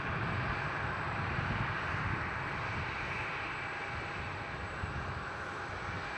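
Jet airliner's engines making a steady low rumble and roar that eases slightly after the first couple of seconds.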